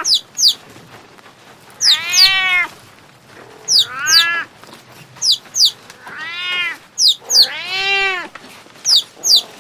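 A cat meowing repeatedly: four drawn-out meows that rise and fall in pitch, spaced about two seconds apart. Short, high, falling chirps come in quick pairs between the meows.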